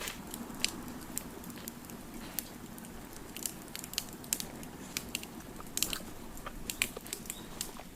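Wood fire crackling: irregular sharp snaps and pops, several a second, over a low steady rush.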